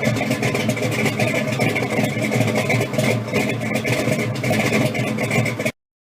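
Engine of a 1953 Chevy pro street hot rod truck idling with an uneven, rumbling beat. The sound stops abruptly near the end.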